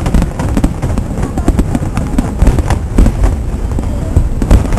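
Fireworks display: a dense, continuous run of bangs and crackles over a low rumble, with an especially sharp bang near the end.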